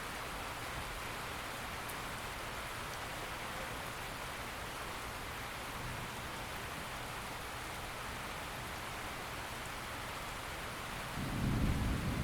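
Steady rain falling, an even hiss. Near the end a low rumble of thunder sets in and is the loudest part.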